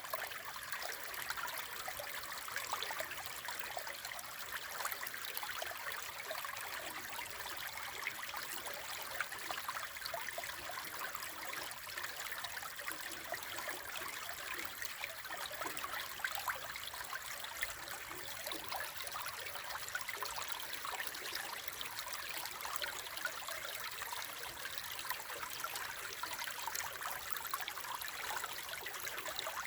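Brook babbling and trickling steadily, a continuous rush full of small splashes.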